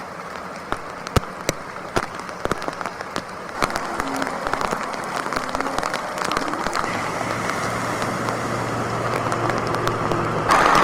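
Rain falling: a steady hiss with scattered sharp drip clicks. A low engine hum joins about seven seconds in, and the rain noise grows suddenly louder near the end.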